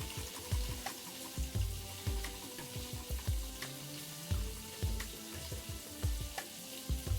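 Food sizzling in a hot frying pan, a steady hiss, over background music with held notes and a regular low beat.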